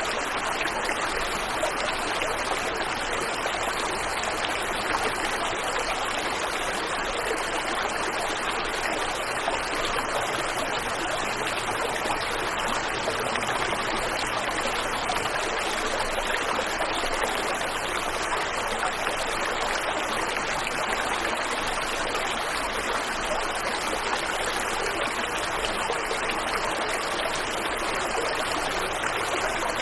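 Waterfall and river water rushing steadily, an even unbroken roar with no changes.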